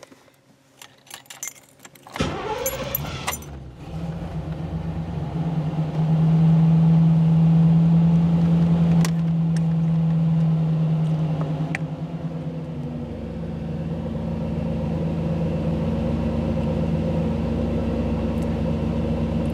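A 1985 Camaro IROC-Z's tuned-port-injected V8 starting: a few light clicks, then the starter cranks and the engine fires about two seconds in. It runs at a fast cold idle, which settles lower about two-thirds of the way through.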